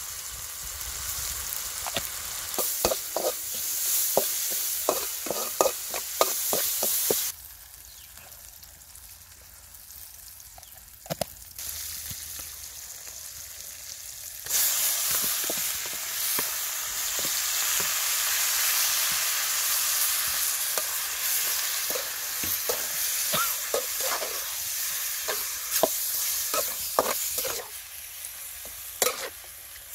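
Chili and garlic frying in a hot black iron wok, sizzling, with a metal spatula scraping and stirring against the pan. The sizzle falls quiet for several seconds, then jumps back loud about halfway through as raw octopus pieces go into the wok, and quick spatula scrapes resume near the end.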